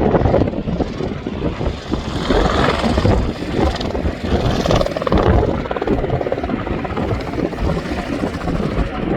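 Mosquito ultralight helicopter running, its engine and rotor making a dense, steady mechanical noise that swells louder between about two and five seconds in.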